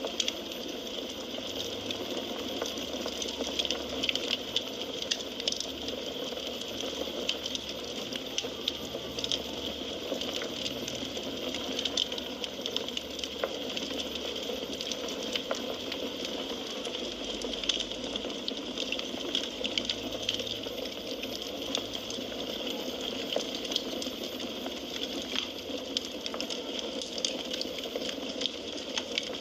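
Burning firewood crackling: a steady hiss dotted with frequent small, sharp pops and snaps.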